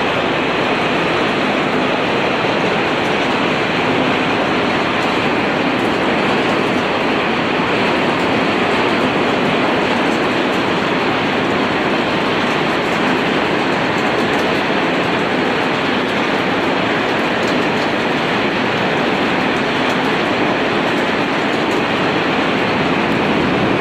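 Arc welding, most likely flux-cored, running one continuous bead: a steady crackling hiss with no breaks, over faint scattered ticks.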